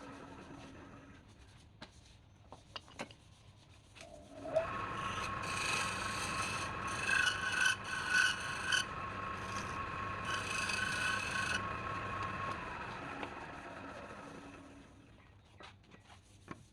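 Wood being worked on a lathe: a tool or abrasive rasping against the spinning wood, with a steady whine. After a few light clicks, the rasping starts about four seconds in, comes in louder scratchy strokes through the middle, and fades out near the end.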